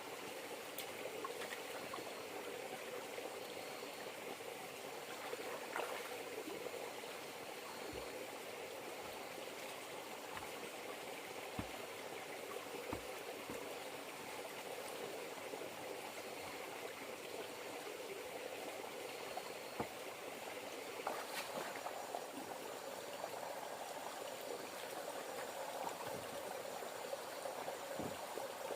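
Steady rush of flowing river water, with a few faint scattered knocks.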